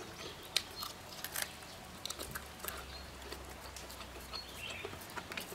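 Crispy deep-fried pork rib being bitten and chewed: scattered soft crunches and crackles.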